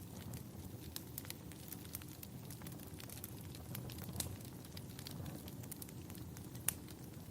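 Wood fire burning in a fireplace: a steady low rumble of flames with frequent small irregular crackles and pops, one sharper pop near the end.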